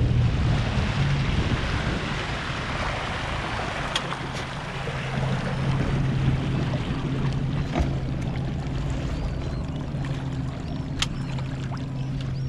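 Boat motor running steadily with a low hum under a hiss of water and wind. The hiss eases off over the first couple of seconds, and a few sharp clicks come through later.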